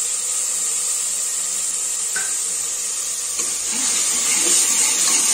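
Onions, tomatoes, green chillies, garlic and ginger sizzling steadily in sesame oil in an aluminium pressure cooker. About three and a half seconds in, a steel ladle starts stirring them and the sizzle grows a little louder.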